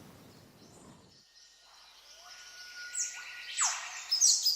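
Birds calling, a few quick downward-sweeping chirps coming in about halfway through and growing louder toward the end, over a steady high background hiss.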